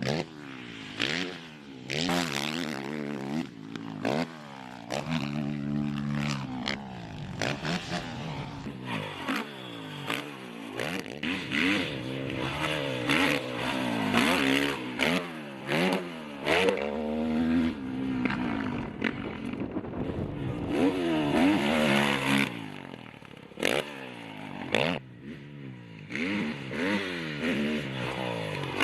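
Motocross dirt bike engine revving up and down again and again as it is ridden hard, the pitch climbing through the gears and dropping off under braking, with several abrupt breaks.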